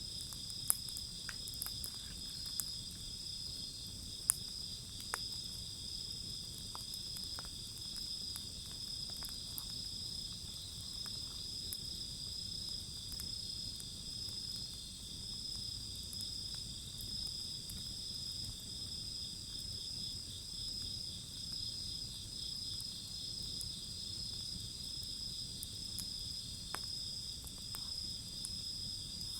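Crickets chirping steadily in several overlapping pitches, with a few sharp pops and crackles from a burning wood fire, mostly in the first few seconds.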